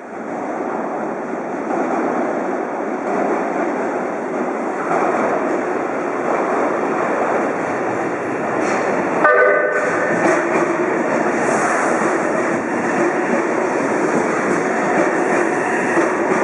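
Yokohama Municipal Subway Blue Line train running along the platform, a steady heavy rumble that slowly grows louder, with a short horn blast about nine seconds in.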